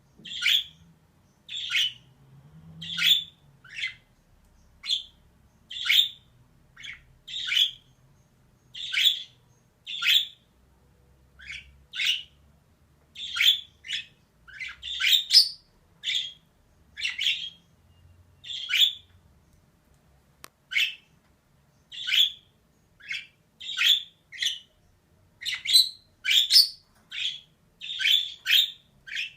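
Female budgerigar calling: a string of short chirps, roughly one or two a second, with a brief pause about two-thirds of the way through.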